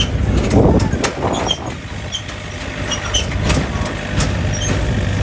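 Farm tractor engine running steadily under way, with frequent clicks and rattles.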